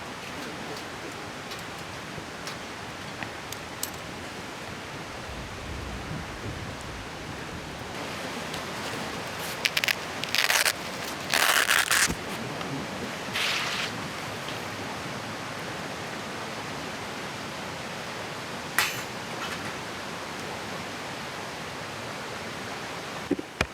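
Steady rushing of a nearby mountain stream. A few short, loud noisy bursts come about ten to fourteen seconds in, with a sharp click near nineteen seconds.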